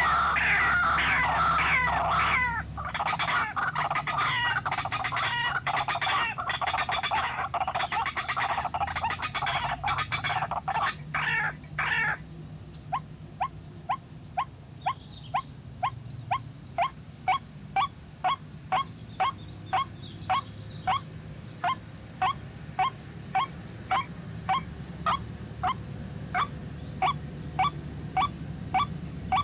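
White-breasted waterhen calling: a dense, harsh chorus of croaking calls for about the first twelve seconds, then a steady series of short single calls, about one and a half a second.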